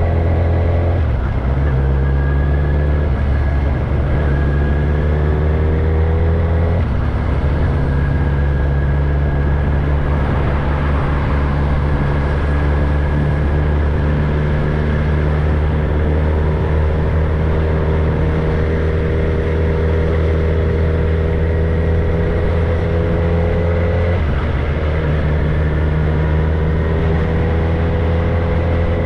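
Kawasaki ZX-10R's inline-four engine running without a tailpipe under way, its pitch climbing slowly as the bike pulls through the gears, with sudden drops in pitch at the shifts about a second in, about seven seconds in and near the end.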